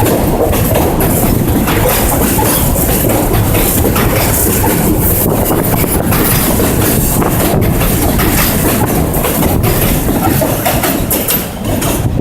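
R46 subway train cars rolling past: a loud, steady rumble with the clack of wheels over rail joints. The sound drops briefly a little before the end.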